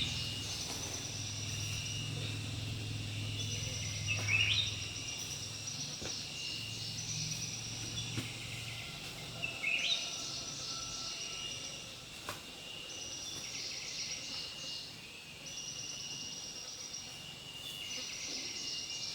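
Insects calling over outdoor ambience, a cycle that repeats about every five seconds: each call opens with a quick rising sweep and then holds a high, steady buzz for a few seconds. A low hum sits underneath during the first half.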